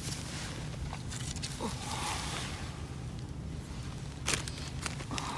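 Lighting a campfire: faint scattered clicks and rustling of tinder and kindling being handled, with one sharp click about four seconds in and soft rushes of noise.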